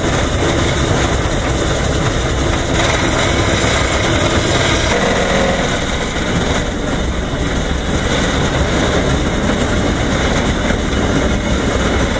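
Mount Washington Cog Railway train running downhill, heard from inside the wooden passenger coach as a steady, loud rumble.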